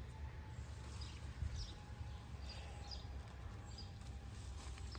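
Faint outdoor ambience: scattered short bird chirps, several over a few seconds, above a low steady rumble.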